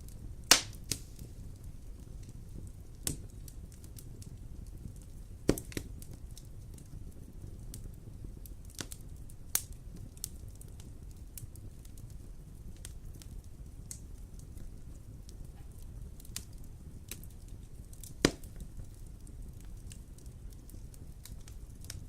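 Wood fire in a fireplace crackling, with a few sharp pops standing out over a low, steady rumble; the loudest pop comes about half a second in.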